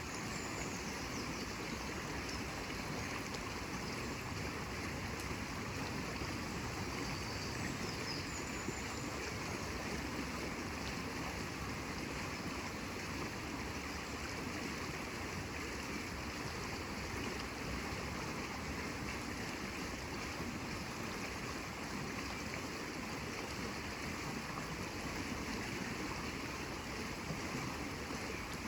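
Running water in a stream, an even, steady rush with no rhythm of breaking waves.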